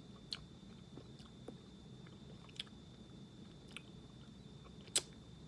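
Mouth chewing a hard, stale gummy fruit snack: soft wet clicks and smacks about once a second, with one sharper click near the end.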